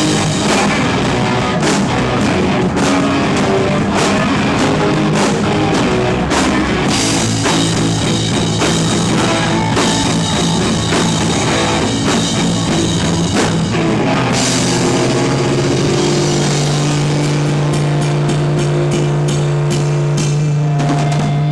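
Live rock band playing loud, with guitars and a drum kit. In the last few seconds the band holds one low chord while the drums hit rapidly, winding the song down.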